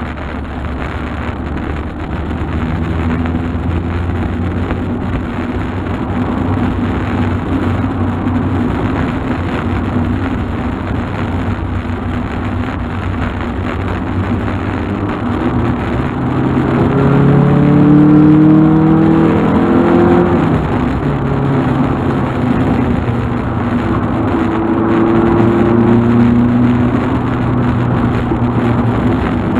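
Volkswagen Golf Mk2 engine and road noise while driving. The engine note rises as the car accelerates about halfway through, drops at a gear change, then rises again.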